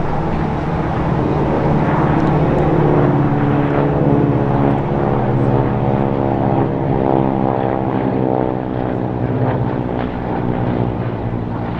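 Propeller-driven aircraft flying past. Its drone of evenly spaced tones slides down in pitch about halfway through as it goes by.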